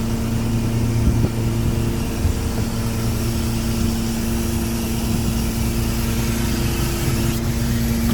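Small fishing boat's engine running steadily, a low even drone that holds one pitch throughout. A single brief knock about seven seconds in.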